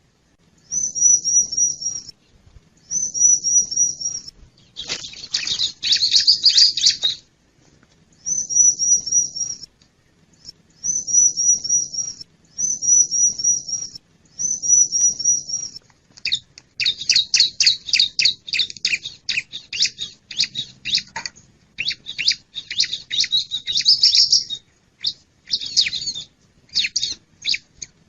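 Bar-winged prinia (ciblek) calling in a lure-call recording. Short phrases of quick, high, evenly repeated notes come again and again with brief pauses, broken twice by longer stretches of fast, dense chatter.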